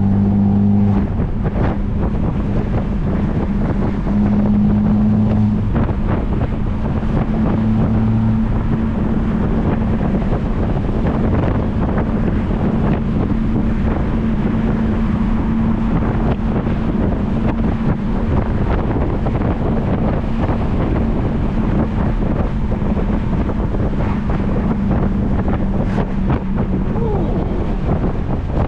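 Straight-piped, turbocharged Mercedes C250 droning steadily at cruise, its pitch shifting a little in the first few seconds, with wind and road noise.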